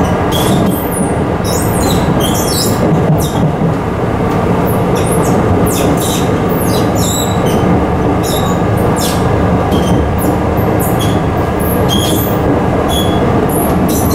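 Chiba New Town Railway 9800 series electric train running at speed, heard from inside the car: a steady rumble of wheels on rail, with short high-pitched squeals every half second or so.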